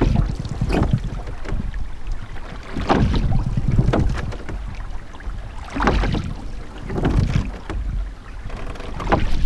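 Water sloshing and splashing around a small dinghy's hull in a slow rhythm, a pair of swishes about every three seconds, with wind buffeting the microphone.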